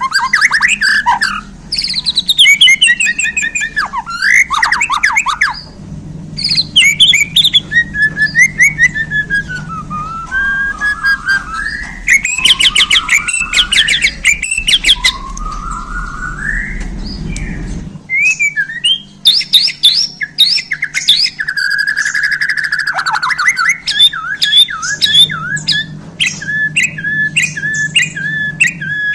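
A white-rumped shama of the Bornean murai batu type singing a loud, varied song of gliding whistles, rapid chattering runs and chirps, full of calls mimicked from other birds. Near the end it repeats one short note about twice a second.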